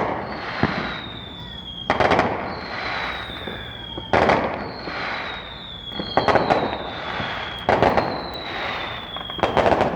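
Fireworks going off in a steady sequence, about one every two seconds: each a thin whistle falling slightly in pitch, then a sharp bang that trails off.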